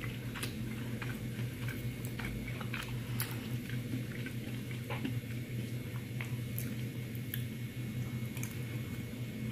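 A person chewing a mouthful of rice with scattered small clicks and wet mouth sounds, over a steady low hum.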